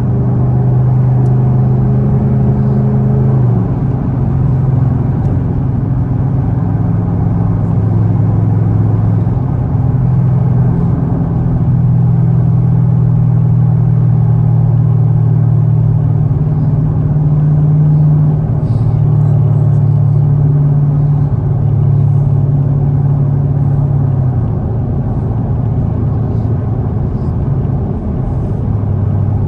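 Chevrolet Camaro ZL1's supercharged V8 running at steady cruising speed, a steady low drone. Its note steps to a new steady pitch about three and a half seconds in and drops again near the end.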